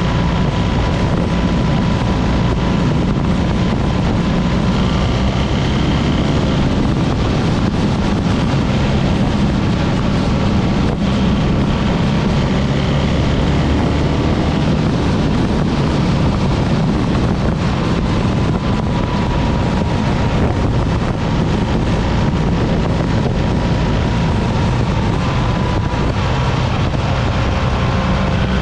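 BMW R 1300 GS motorcycle's boxer-twin engine running steadily while riding at speed, with wind buffeting the microphone.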